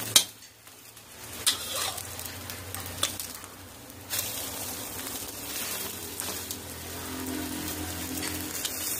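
Egg omelette frying in oil in a steel wok, sizzling steadily as it nears done. A few sharp clicks of the spatula knocking the wok come over it, the loudest just at the start and others about every second and a half up to about four seconds in.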